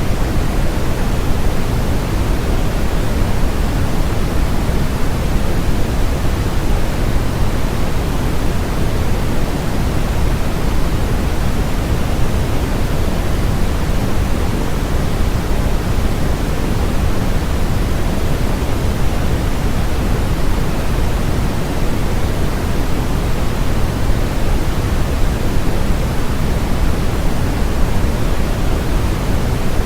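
Steady generated white noise, an even hiss that never changes, with more weight in the low end than in the highs.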